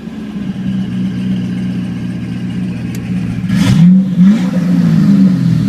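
Twin-turbo LS3 V8 of a 2006 Pontiac GTO idling with its exhaust cutouts open, growing louder just after the start as the cutouts open. About three and a half seconds in it is blipped twice in quick succession with a rushing hiss, then the revs fall back to idle.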